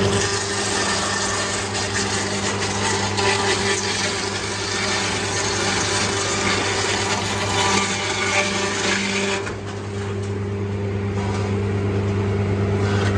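Wood-processing machine running, with a steady motor hum under a rough grinding noise that swells and eases, dipping briefly near the end.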